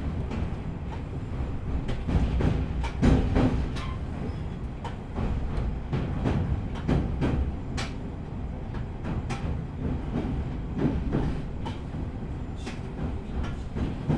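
Running noise heard inside a JR East E501-series electric train moving slowly under a strong-wind speed restriction: a steady low rumble broken by irregular clacks and knocks from the wheels and running gear.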